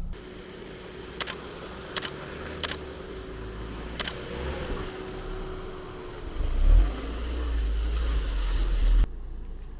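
4x4 vehicle on an off-road course, its engine running with a steady tone, broken by four sharp clicks in the first four seconds. In the second half a deep rumble swells, peaks, builds again, and cuts off abruptly near the end.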